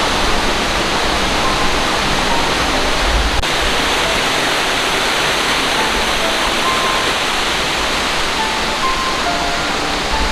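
Waterfall pouring, a steady, loud rush of water that does not let up.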